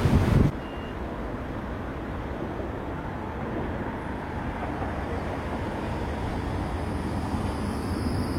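Tram in motion: a steady low rumble with a rushing noise, which rises slowly. A louder rush cuts off abruptly about half a second in.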